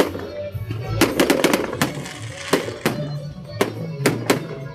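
Fireworks going off: an irregular series of sharp bangs, several in quick succession about a second in and more spaced out after.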